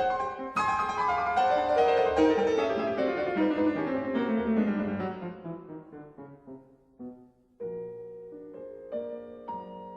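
Solo piano playing a quick passage: a flurry of notes sweeping downward in pitch and dying away, a brief pause about seven seconds in, then softer notes and chords resume.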